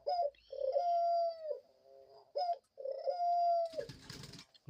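Pet dove cooing: a couple of short notes, then two long, drawn-out coos of about a second each, holding a steady pitch and dropping slightly at the end. A short, noisy rustle comes near the end.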